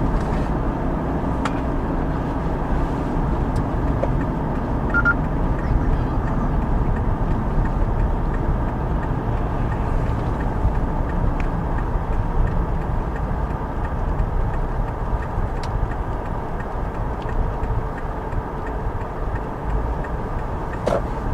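Steady road and engine noise heard from inside a car driving on snowy streets, with a few faint ticks.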